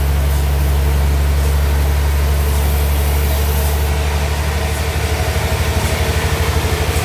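Engine running steadily with a deep hum, likely the power unit of a homemade portable sawmill; from about four seconds in its sound takes on a regular pulsing beat.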